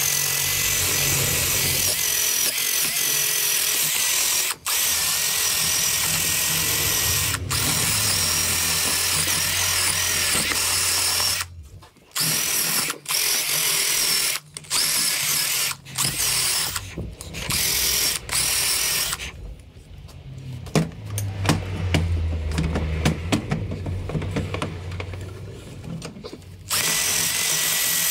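Handheld power tool running in long bursts with a steady whine, stopping and starting briefly several times. Through a longer pause in the second half there is lighter, irregular metallic clicking, and then the tool starts up again near the end.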